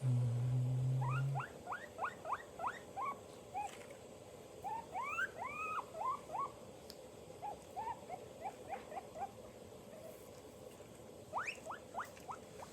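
A guinea pig squeaking in quick runs of short, rising squeaks, after a brief low buzz at the very start.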